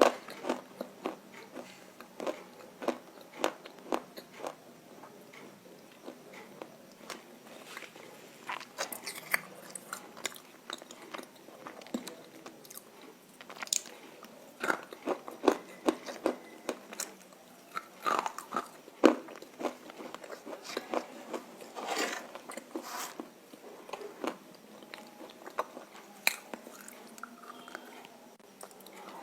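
Roasted clay chunks bitten and chewed close to the microphone: irregular sharp crunches, some single and some in quick clusters, with short pauses between.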